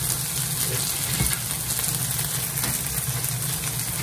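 Corned beef with diced potatoes and onions sizzling in a frying pan, a steady frying hiss.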